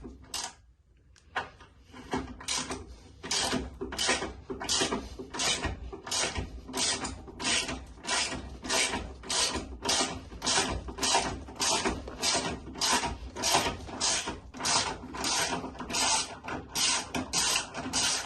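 Hand ratchet wrench worked back and forth on a fastener in an engine bay, a quick run of clicks on each back-swing, about two to three strokes a second, starting about a second and a half in.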